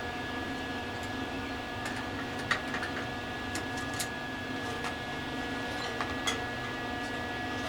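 Steady machine hum with several fixed tones, over which come a dozen or so light clicks and taps, bunched between about two and six and a half seconds in.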